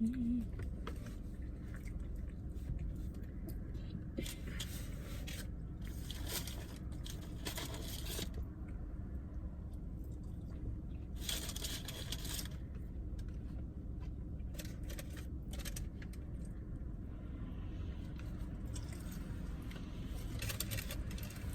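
Close-up eating sounds: crunching, biting and chewing of takeout food, with scraping and rustling coming and going every few seconds over a steady low hum.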